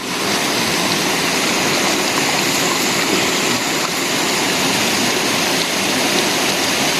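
Steady rushing of flowing water from a stream or river.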